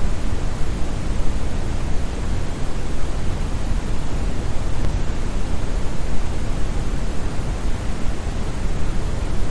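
Brown noise: a steady, even rushing hiss, deep and bass-heavy, with little treble.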